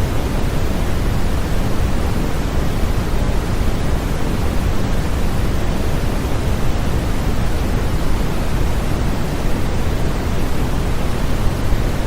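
Continuous sleep-aid noise played for a baby: a steady, even hiss weighted toward the low end, more like a deep rush than a bright hiss. It has no tones or rhythm and does not change.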